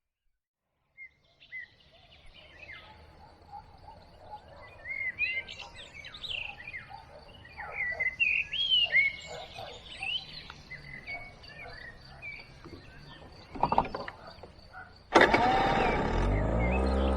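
Outdoor birdsong: several birds chirping and whistling in quick, curving phrases over a faint low rumble, with a thin steady high tone behind them. Near the end, music starts abruptly and loudly.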